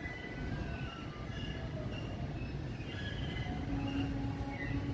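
Freight train wagons rolling past, a steady low rumble of wheels on rail with short high-pitched wheel squeals coming and going, and a longer, lower squeal held for about a second near the end.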